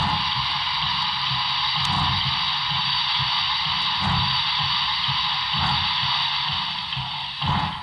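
Steady steam hiss from the Paragon 3 sound decoder of an HO-scale Broadway Limited 2-8-0 steam locomotive, played through its small onboard speaker, with uneven low rumbling pulses underneath.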